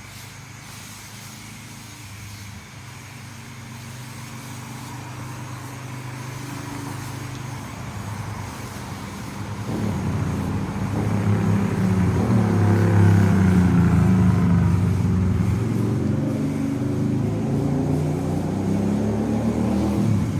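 A low, steady motor hum that grows clearly louder about halfway through and then holds.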